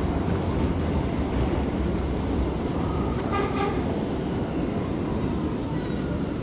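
A New York City Subway R179 car running along the track, heard from inside: a steady low rumble of wheels and motors. About three seconds in comes a brief high tone with a few clicks.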